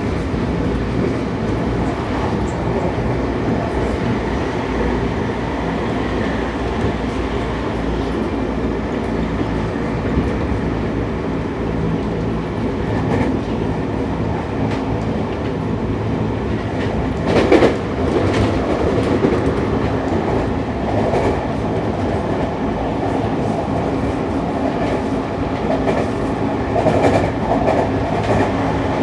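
Onboard running sound of a Seibu 6000 series electric train (Toshiba IGBT VVVF motor car) at speed: a steady rumble of wheels on rail with rail-joint clatter. A sharp, loud clank comes a little past halfway, and there is more clatter near the end.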